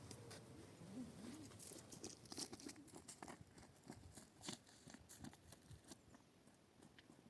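Faint, irregular crunching and clicking, like something being trodden or handled, with no steady sound beneath it.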